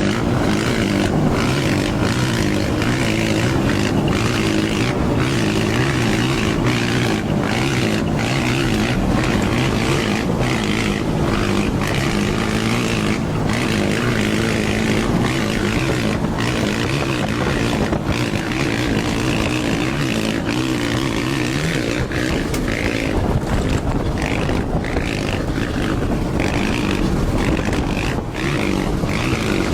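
Dirt bike engine running throughout with many brief dips.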